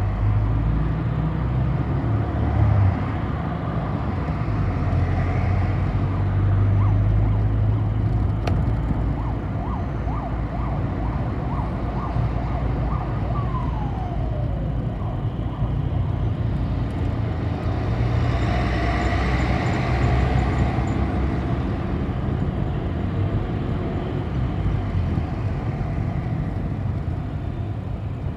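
Steady low engine hum and road noise of a city bus on the move. About fourteen seconds in, a whine falls in pitch.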